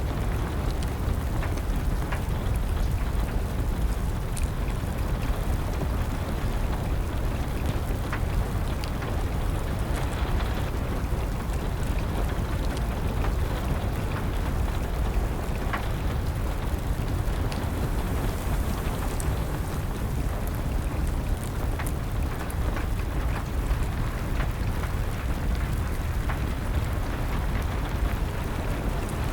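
Steady rain with the scattered pops and crackles of a burning wood fire, constant throughout with no change.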